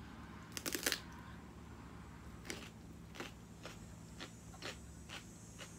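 Fresh celery being bitten and chewed, really loud: a crisp bite about a second in, then steady crunches about twice a second.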